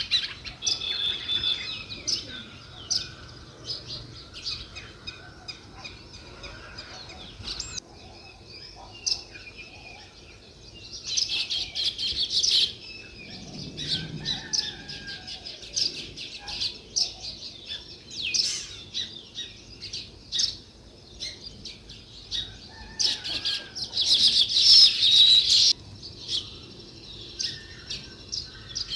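A flock of small songbirds chirping continuously, with dense bursts of rapid chatter about a third of the way in and again, loudest, near the end.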